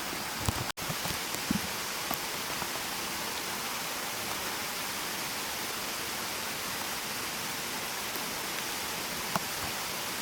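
Steady hiss of water, even and unbroken after a momentary dropout about three-quarters of a second in, with a few faint clicks early on and one near the end.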